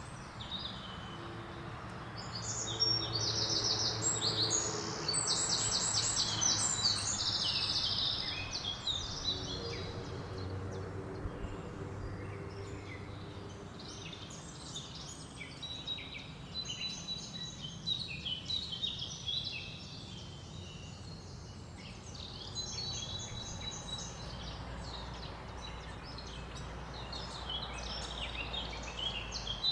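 Mixed forest birdsong: several birds singing short phrases and fast trills, busiest and loudest in the first third, over a steady rush of wind through leaves.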